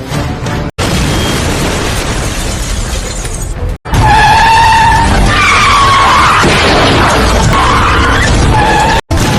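Crash-clip audio cut together in short pieces over background music, with road and impact noise, then loud tyre screeching with a wavering pitch from about four seconds in.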